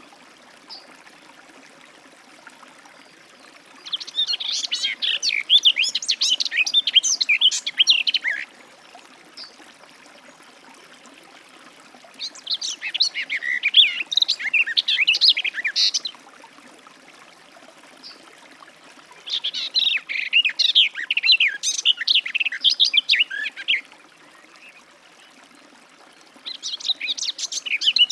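Garden warbler singing: four long bouts of rapid, continuous warbling, each about four to five seconds, separated by pauses of a few seconds.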